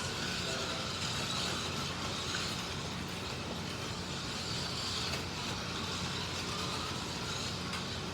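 Model slot cars running laps on a track: the whine of their small electric motors and the rattle of the cars over the track, over a steady low hum.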